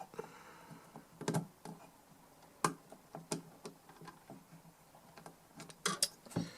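Irregular small clicks and taps of a screwdriver and screws on a metal DI box case during reassembly, a few sharper knocks near the middle and a quick cluster near the end.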